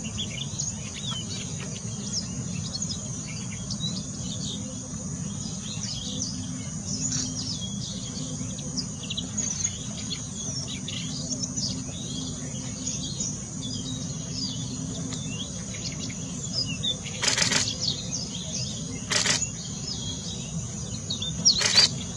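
Siberian rubythroat singing: a run of quick, varied high chirps and short whistled notes, over a steady high insect drone. A few brief, loud noises come near the end.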